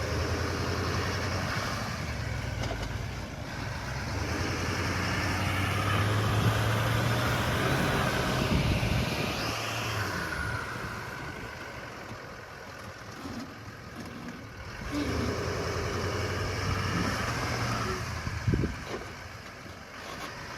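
GMC Sierra 2500 AT4X pickup engine running under load and revving, rising in pitch around the middle, as the truck tries to pull itself out of deep mud. A short sharp knock sounds near the end.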